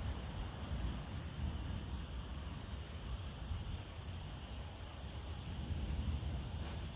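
Insects chirring steadily, with a continuous high-pitched trill and a faster pulsing one just below it, over a steady low rumble.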